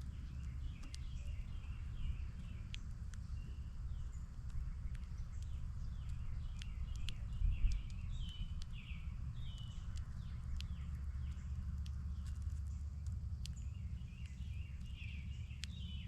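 Small birds chirping at a feeder, with scattered sharp clicks over a steady low rumble; a single low thump about seven and a half seconds in.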